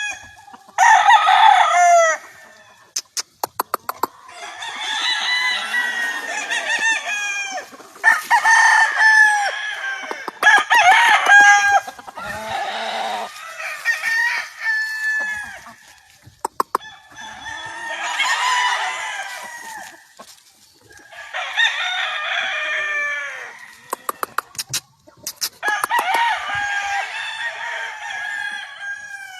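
Several gamefowl roosters crowing in turn, about eight crows, some overlapping, with short runs of sharp clicks between the crows.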